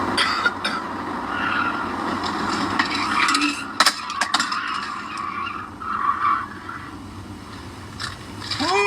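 Steady road noise of a moving vehicle, broken by several sharp knocks and clatters, with a short rising pitched sound near the end.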